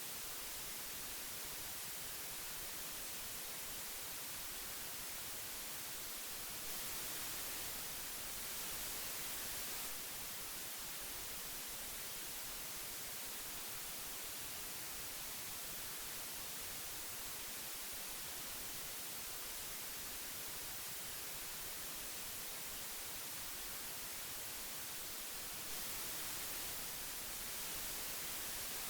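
Old tape hiss: a steady, even hiss, heaviest in the treble, that swells slightly louder and brighter twice, about seven seconds in and near the end.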